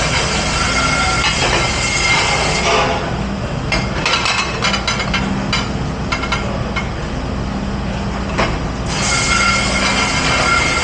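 Loud steady rushing and whine of a running commercial dish machine. The rushing drops back for several seconds in the middle while dishes and utensils clink and clatter, then returns near the end.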